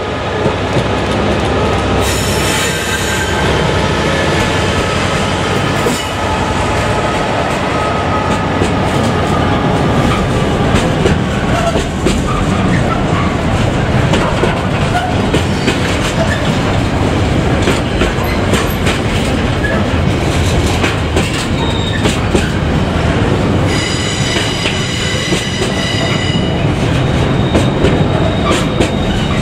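A train running on the rails, a loud, steady rumble with wheels clacking over rail joints. There is high-pitched wheel squeal about two seconds in and again for a few seconds near the end.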